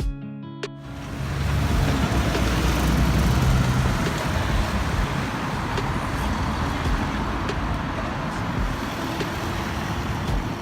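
A guitar music bed stops about a second in, giving way to the loud, steady rumble and rush of a moving vehicle.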